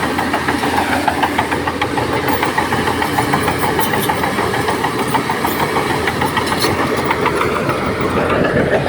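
Heavy diesel engine of earthmoving machinery running with a fast, steady clatter, its pitch rising near the end as it revs up.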